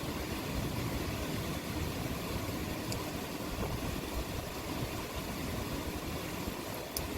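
Steady rain with a low, continuous rumble underneath and an even hiss, broken only by a couple of faint ticks.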